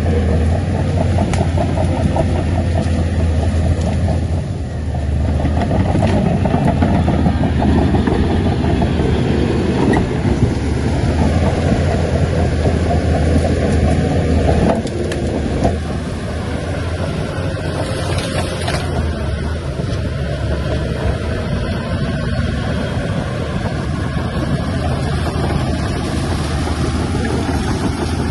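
Shantui bulldozer's diesel engine running steadily under load. It grows louder about five seconds in and eases back somewhat after about fifteen seconds.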